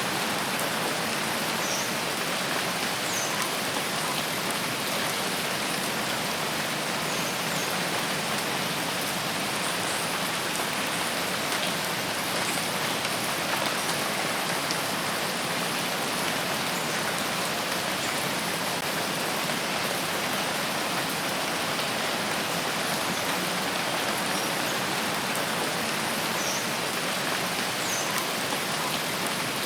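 Steady rain falling, an even, unchanging hiss of many drops.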